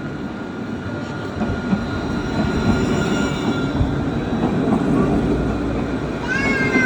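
A tram running by in the street with a steady rumble and high thin whining tones, which bend up and down about six seconds in.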